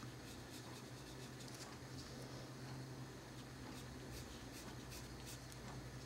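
Faint, irregular scratching of a colored pencil shading on paper, over a steady low electrical hum.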